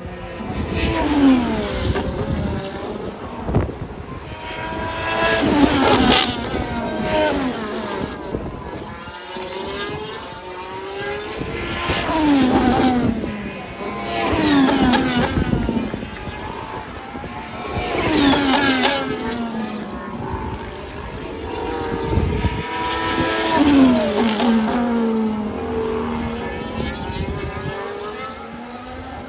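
Formula 1 cars' turbocharged V6 engines at racing speed passing one after another, about seven pass-bys in all, each engine note falling in pitch as the car goes by.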